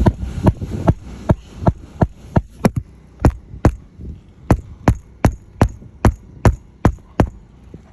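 Sharp knocks or taps repeating steadily about two or three times a second, with a brief pause midway, stopping about seven seconds in.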